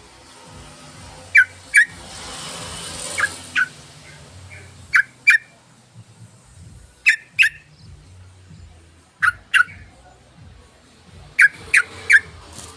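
Yellow-vented bulbul (trucukan) calling: short, sharp notes in pairs about every two seconds, with a quick run of three near the end.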